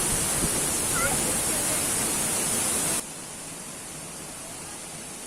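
Steady rushing noise of a waterfall, which drops suddenly to a quieter, duller level about three seconds in.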